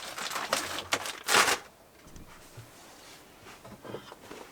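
Things being handled and moved about: a few short rustling, scraping sounds in the first second and a half, the loudest about a second and a half in, then only faint small knocks.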